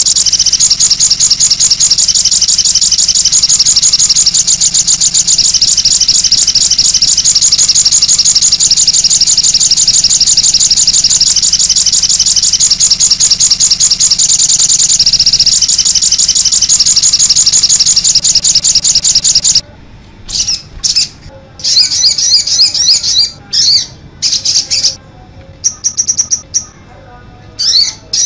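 Sogon sunbird singing: a fast, unbroken run of high, sharp chirps, then, about two-thirds of the way through, shorter chirping bursts broken by pauses.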